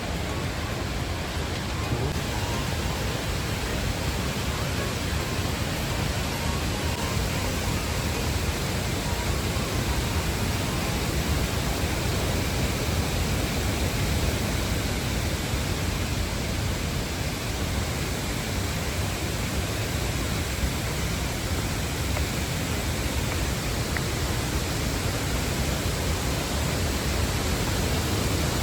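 Steady rush of a large waterfall: unbroken white-noise roar of falling water.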